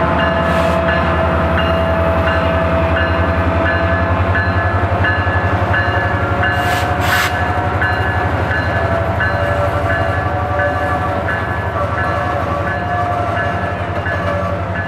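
Boxcars of a freight-built train rolling past close by: a steady low rumble of wheels on rail, with drawn-out wavering metallic squeal tones over it. A regular high ringing tone repeats about two or three times a second, and a short hiss comes about seven seconds in.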